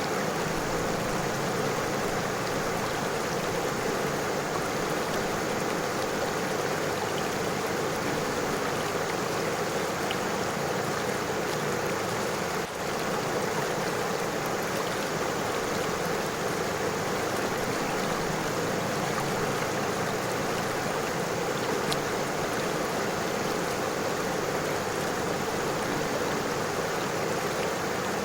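A river flowing, a steady even rush of water.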